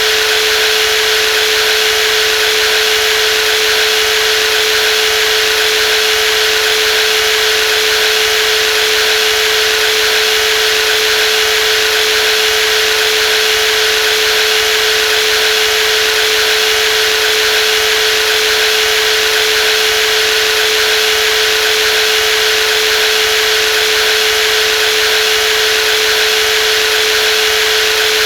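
Brushless jigsaw motor running steadily at constant speed, a loud high hum with one strong steady tone and a hiss of motor noise above it, unchanging throughout.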